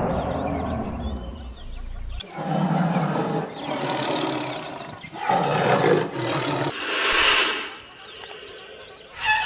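An animal calling loudly four times in a row, each call lasting a second or so, with abrupt cuts between clips.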